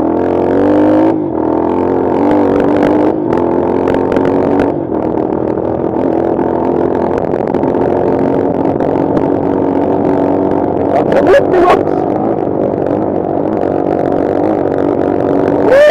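Bashan Brozz 250 dual-sport motorcycle's engine running under throttle on a dirt trail, revs rising in the first couple of seconds and then holding steady, with a few short knocks and clatter.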